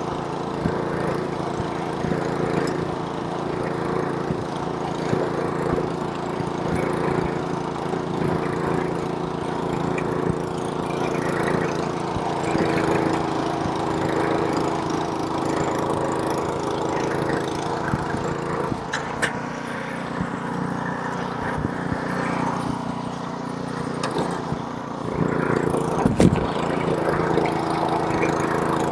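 Small-engine snowblower running steadily under load, its engine note dipping slightly about two-thirds of the way through, with a sharp knock a few seconds before the end.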